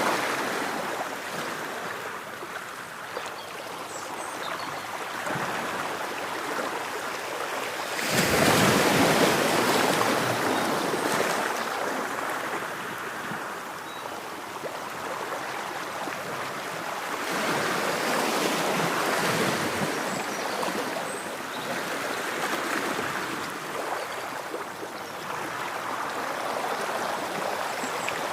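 Ocean waves breaking and washing onto a shore, each swell of surf rising and falling over several seconds. The loudest wave breaks suddenly about eight seconds in, and smaller ones follow near the middle and the end.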